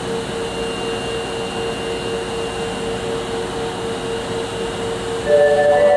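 Steady mechanical hum in a subway station with one constant mid-pitched tone. Near the end a louder sound of several held tones starts.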